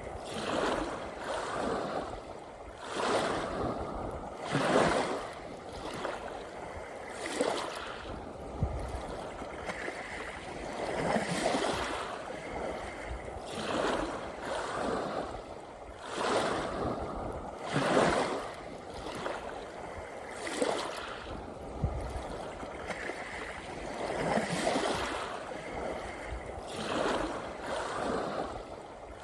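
Sea waves washing up on a beach, surging in irregular rushes every few seconds over a steady hiss of surf.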